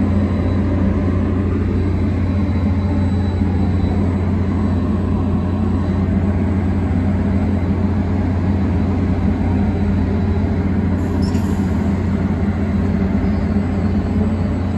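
Train running with a steady low hum.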